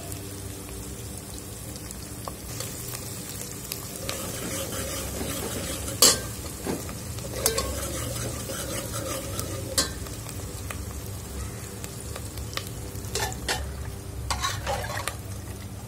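Onions, dal and dried red chillies sizzling in hot oil in an aluminium pressure cooker, stirred with a steel ladle that scrapes and knocks against the pot now and then, the loudest knock about six seconds in. Near the end the ladle is stirring thick cooked dal in the cooker.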